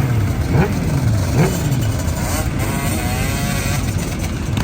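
Several motorcycles running together, with two quick throttle revs, the pitch rising sharply about half a second and a second and a half in, over a steady engine drone.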